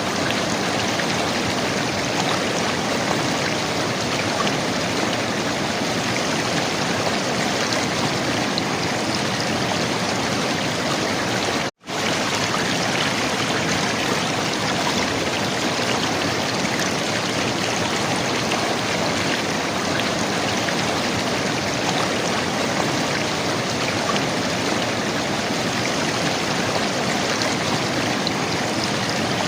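River water flowing and gurgling in a steady, even rush, cut off for a split second about twelve seconds in.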